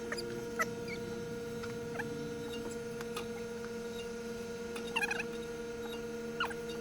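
A steady electrical-sounding hum, with a few short high chirps over it, the clearest about five seconds in.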